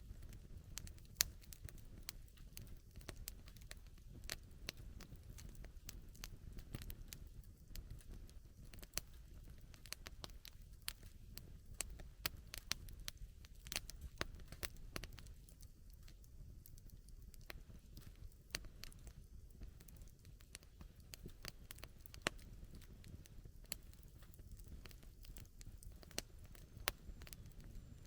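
Campfire wood burning, with frequent irregular sharp crackles and pops over a low steady rumble.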